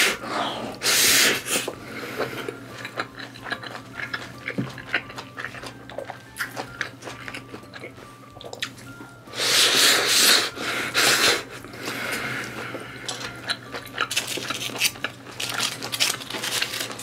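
Close-miked chewing of a mouthful of sweet corn: small wet clicks and mouth noises throughout, with a few louder rustling bursts about a second in and again around ten seconds in.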